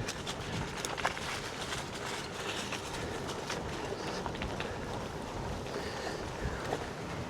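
Wind buffeting the microphone and tyre noise of a road bike being ridden, with scattered small clicks and ticks.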